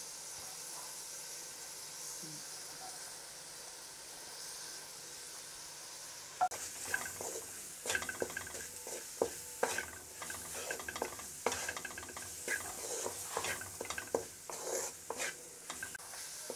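Onion-tomato masala frying in ghee in a metal pan, a steady high sizzle as the ground spices go in. From about six seconds in, a wooden spoon stirs it, with irregular scrapes and knocks against the pan.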